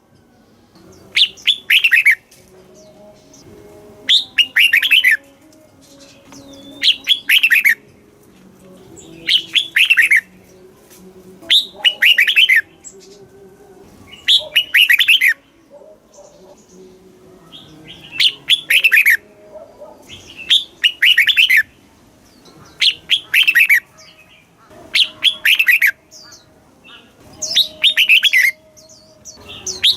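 Red-whiskered bulbul singing: short, bright phrases of quick falling notes, repeated about every two and a half to three seconds.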